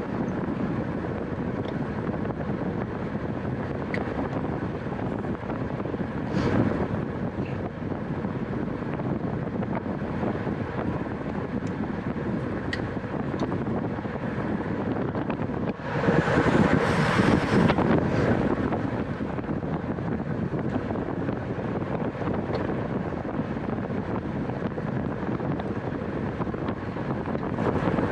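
Wind rushing over the microphone of a camera on a racing bicycle at speed, a steady noise that swells louder for about two seconds midway.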